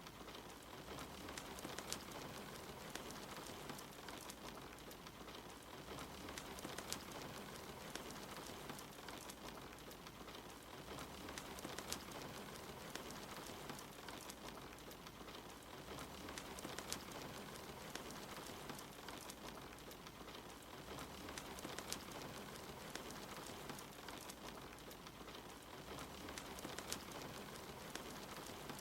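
Soft, steady rain hiss with the scattered pops and crackles of a wood fire, a louder pop about every five seconds.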